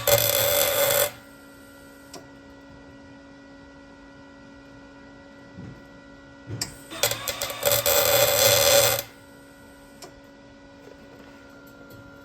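MIG welder laying tack welds on an exhaust muffler whose welds had broken loose and made it rattle: two bursts of arc crackle, a short one ending about a second in and a longer one of about two seconds in the middle. A faint steady hum runs between them.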